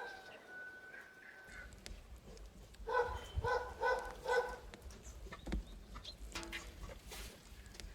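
A dog barking, a quick run of four barks about three seconds in.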